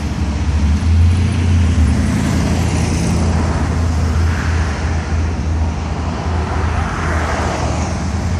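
Classic cars cruising slowly past, their engines giving a deep, steady low rumble that is loudest about a second in, with the noise of the passing cars swelling twice later on.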